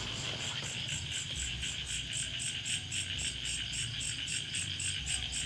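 Chorus of insects in the field: a steady high buzz with a faster pulsing trill above it, about four pulses a second.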